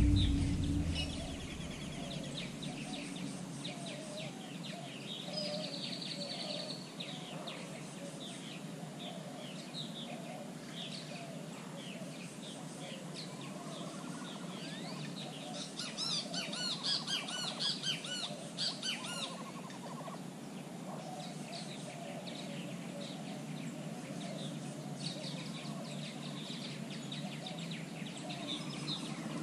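Several wild birds chirping and calling, with a louder run of quick repeated notes a little past halfway, over a steady low background hum.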